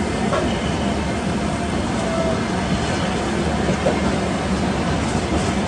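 Steady rumble of an express passenger train's coaches and wheels running at speed along the track, mixed with wind rushing past the coach door.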